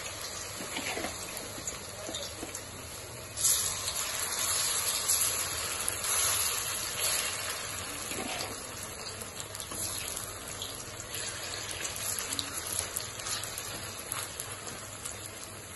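Batter-coated paneer pieces shallow-frying in hot oil in an iron kadhai, sizzling steadily with fine crackles. The sizzle gets louder about three and a half seconds in.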